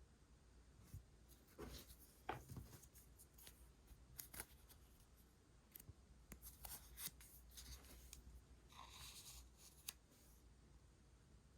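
Scissors cutting paper: a faint, irregular series of short, crisp snips, with a brief rustle of paper being handled near the end.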